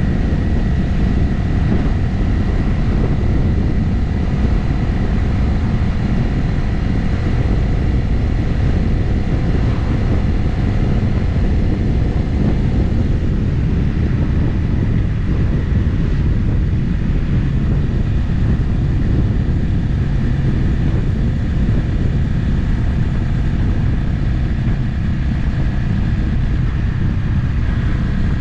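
Motorcycle riding at a steady cruising speed: an even engine drone mixed with road and wind noise.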